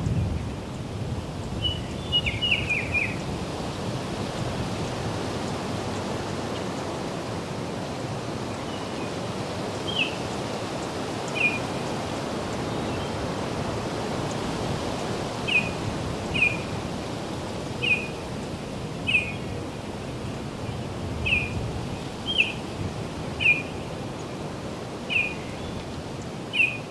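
A bird calling in short, slightly falling chirps: a quick run of notes about two seconds in, then single notes repeated every second or so. Under the calls is a steady rushing background of wind in foliage and distant road hum.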